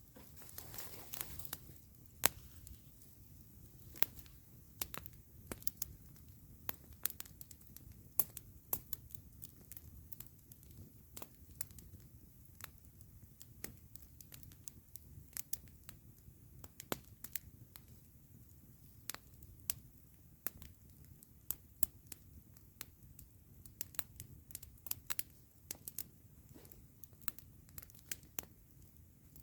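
Wood campfire crackling: irregular sharp pops and snaps, several a second, with a denser flurry of crackle in the first second or two.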